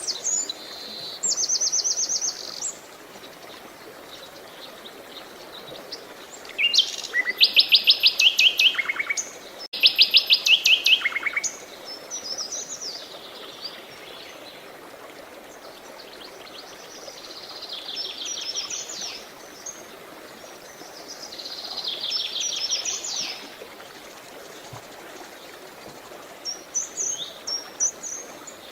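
Songbirds singing in repeated phrases of rapid trills, two loud trilled songs in a row about a third of the way in and quieter ones later. Running water hisses steadily underneath.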